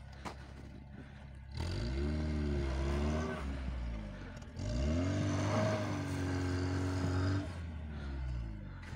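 Lada VAZ-2104's engine revving up twice, the second time held for a few seconds before dropping back, as the rear wheels spin in snow. The car has a Quaife worm-gear limited-slip differential.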